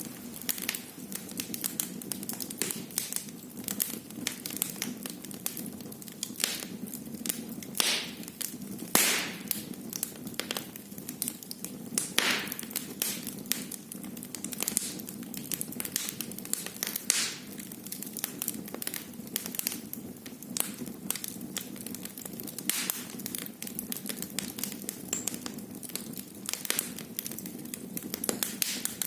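Wood fire burning in a fireplace: frequent sharp crackles and pops over a steady low rumble of the flames, with a few louder pops near the middle.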